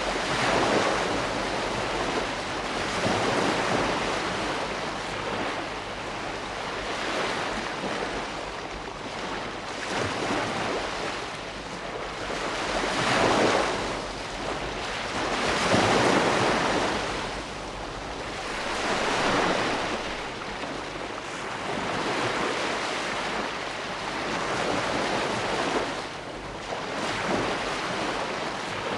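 Ocean waves breaking and washing on the shore, a steady surf noise that swells with each wave every few seconds, the biggest about halfway through.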